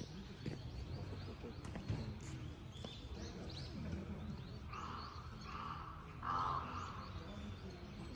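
Outdoor birdsong ambience: small birds chirping here and there over a low background rumble, with three loud calls from a bird in quick succession a little past halfway.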